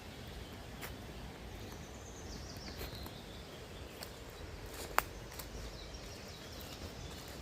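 Quiet summer forest ambience, with a faint high bird call gliding slowly downward near the start and a single sharp click about five seconds in.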